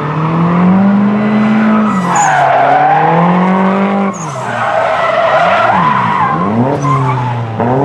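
Drift cars on track: engines revving up and falling back in repeated sweeps, with tyres squealing through the slides. Around six seconds two engine notes cross.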